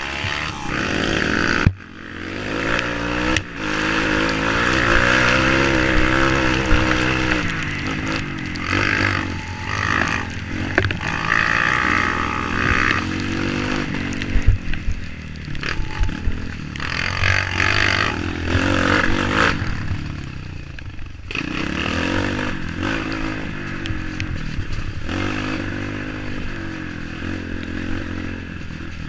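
Off-road motorcycle engine revving up and down, its pitch rising and falling repeatedly, with knocks and rattles mixed in.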